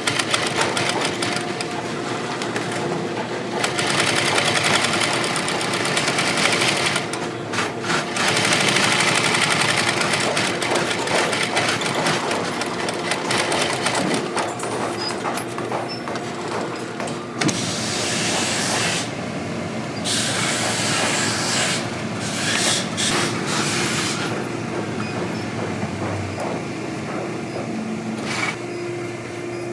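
Boot-repair shop machinery running: a fast, even mechanical rattle, with several louder stretches of rushing noise about 4, 8 and 18 seconds in, over a steady hum.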